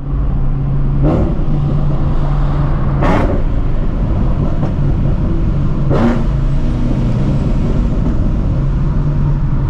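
Procharged Shelby GT350's 5.2-litre flat-plane-crank V8 running steadily on the move, with three short whooshes about one, three and six seconds in.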